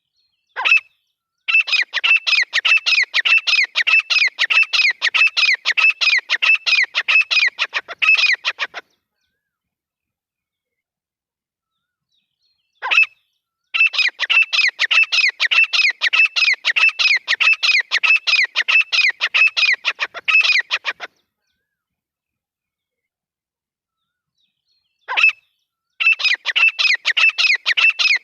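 Grey francolin calling: a single sharp note, then a long run of rapid, loud repeated notes lasting about seven seconds. The pattern repeats three times, with the third bout starting near the end.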